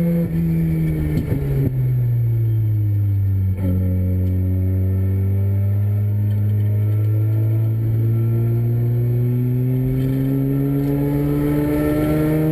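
Mazda Renesis two-rotor rotary engine of a race car on track: the revs drop over the first couple of seconds with a few crackles, then climb slowly and steadily under throttle for the rest.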